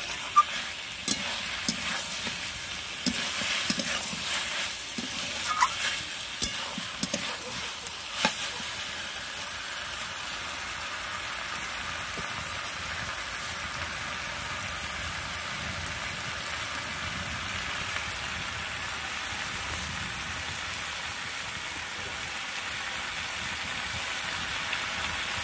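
Chicken and potato curry sizzling in a kadai as it is dry-fried, with a metal spatula scraping and knocking against the pan for the first eight seconds or so; after that a steady sizzle.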